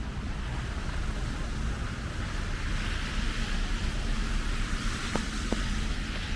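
Snowy city street ambience: a low rumble of wind and traffic, with the hiss of tyres on a wet road swelling in the middle as a vehicle passes. Two faint ticks come about five seconds in.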